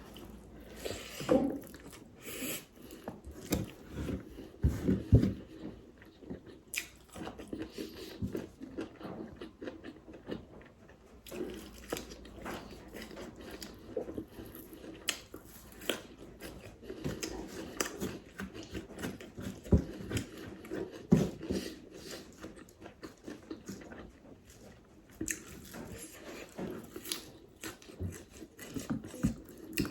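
Close-miked eating: a person biting and chewing food, with irregular crunches and mouth clicks.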